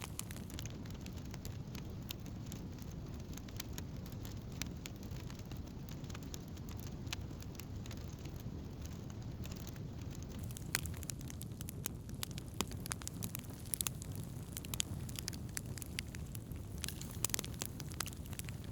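Wood campfire burning: a steady low rumble of the flames with frequent sharp crackles and pops of burning wood, which come more often in the second half.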